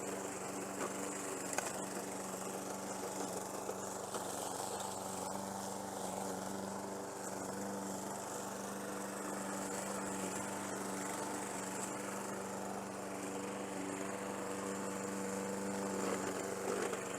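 Petrol walk-behind lawn mower engine running steadily at an even pitch while mowing grass.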